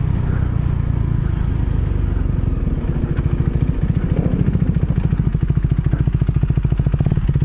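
Motorcycle engine heard from the rider's helmet, slowing in low gear with some wind and road noise, then settling into a rapid, even idle pulse about three seconds in as the bike nearly stops.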